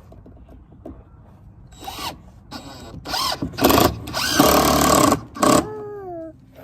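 Cordless drill running in several short trigger bursts and one longer run about halfway through, as when driving screws into wood.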